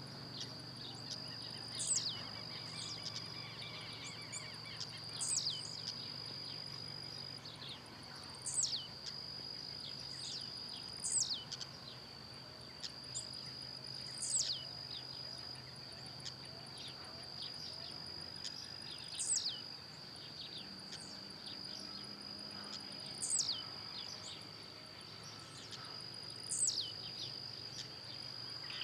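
Blue-black grassquit (tiziu) singing its short, sharply falling song note, repeated about every three seconds, eight times in all, over a steady high-pitched insect drone.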